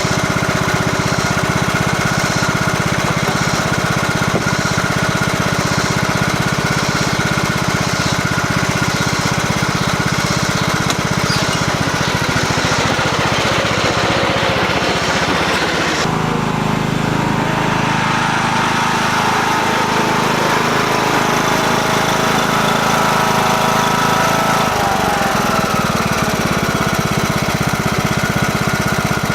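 Lawn mower engine running steadily while mowing grass. Its tone changes abruptly about halfway through, and the engine pitch shifts near the end.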